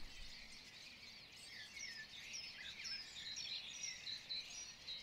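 Birds chirping: many short high calls repeating over a faint background hiss, becoming clearer and more frequent from about two seconds in.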